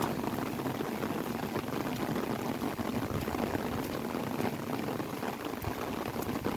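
Steady rain falling on an umbrella, a dense patter of many small drops with no letup.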